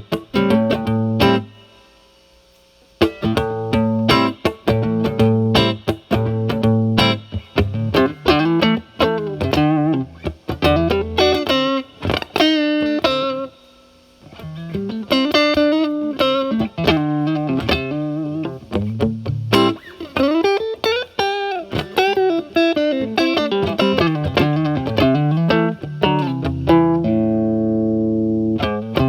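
Electric guitar, a Stratocaster played through a Paul Cochrane Timmy overdrive pedal with its gain at about 8–9 into a Marshall Valvestate amp's clean channel. It plays a few chord stabs with short breaks, then single-note lead lines with string bends, and ends on a held chord near the end.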